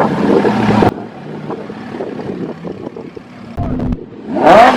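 Lamborghini exhaust revving loudly, cut off abruptly about a second in; after a quieter stretch, the engine is revved again near the end, its pitch rising sharply.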